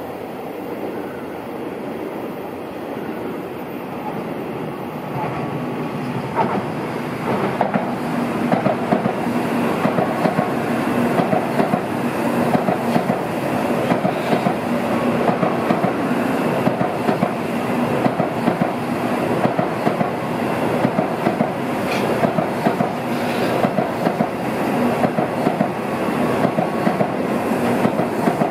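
N700-series Tokaido Shinkansen train running past with a steady rumble and hum, growing louder about six seconds in, then a long run of regular wheel clicks as the carriages go by.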